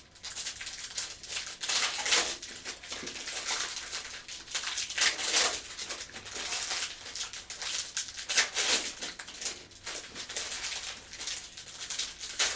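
Trading card packs being handled and opened: foil wrappers crinkling and cards rustling and flicking in irregular bursts.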